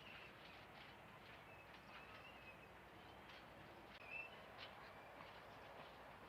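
Faint, scattered bird calls: a few short high chirps, the loudest about four seconds in, over quiet outdoor background noise.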